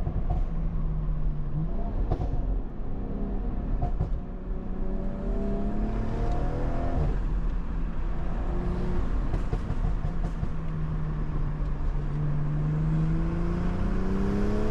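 BMW M340i's turbocharged 3.0-litre B58 inline-six pulling under acceleration, heard from the cabin with the windows down: the engine note climbs in pitch, drops back at an upshift about seven seconds in, then climbs again.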